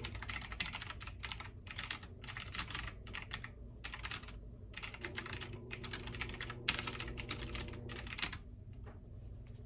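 Computer keyboard typing in fast runs of keystrokes with short pauses, stopping near the end, over the steady low hum of a washing machine running.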